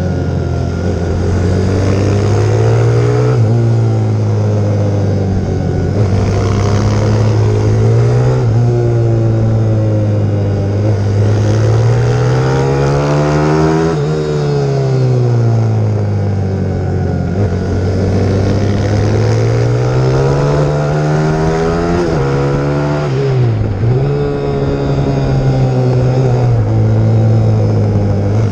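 Pit bike's single-cylinder four-stroke YX150 engine ridden hard, its revs climbing and falling over and over, with a few sudden short dips in pitch.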